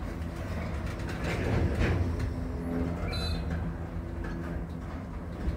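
Container freight train wagons rolling slowly past, a steady low rumble of wheels on rail.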